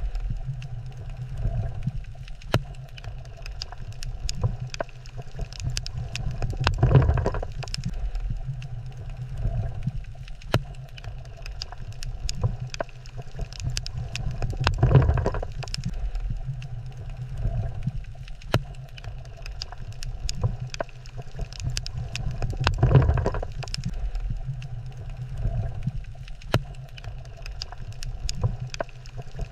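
Underwater ambience over a coral reef: a steady low rumble that swells about every eight seconds, with scattered sharp crackling clicks throughout.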